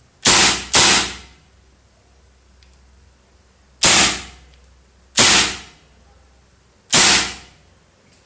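A CO2-powered 6mm airsoft Nagant revolver firing five shots: two in quick succession, about half a second apart, then three more spaced a second or more apart. Each shot is a sharp crack with a short decay.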